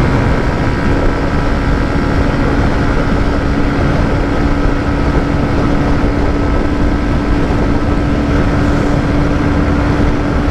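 Hero Xtreme 125R's single-cylinder engine running steadily at high revs in fifth gear near top speed, one held drone under heavy wind rush on the microphone.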